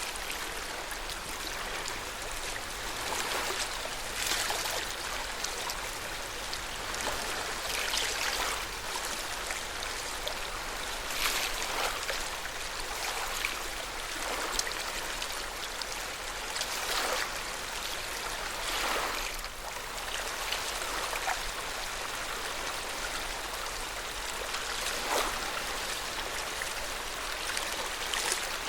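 Lake water lapping at the shore, a steady wash of water with irregular louder splashes every one to three seconds.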